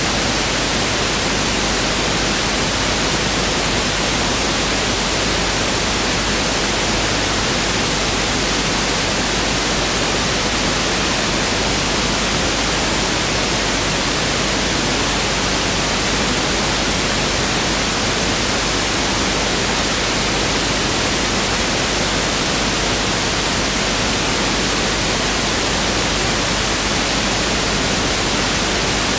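Pink noise (1/f noise) played as a steady, continuous test signal: an even hiss with no change.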